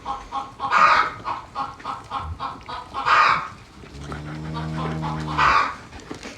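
Hens clucking in a quick, even patter, with three louder, sharper squawks about a second, three seconds and five and a half seconds in. A low, steady drone sounds underneath for about a second and a half near the end.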